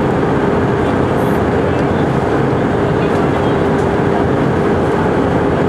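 Airbus A319 cabin noise: the steady rush of the jet engines and airflow, with a constant low hum underneath.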